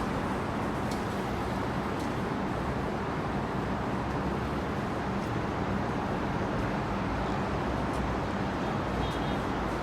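Steady road traffic noise, an even continuous hiss with no single vehicle standing out.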